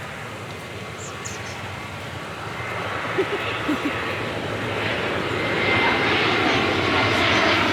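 Airliner flying low overhead, its engine noise growing steadily louder, with a high steady whine coming in about halfway through.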